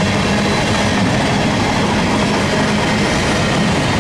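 Freight train cars, mostly covered hoppers, rolling past close by: a loud, steady rumble and rattle of steel wheels on the rails.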